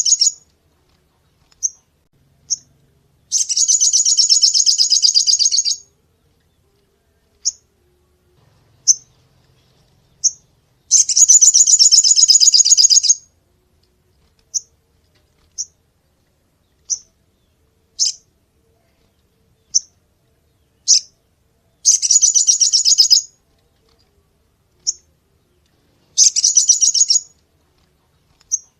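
Sogon bird in full song: four loud, high, rapid rattling trills of one to two and a half seconds each, with short sharp single chirps scattered between them.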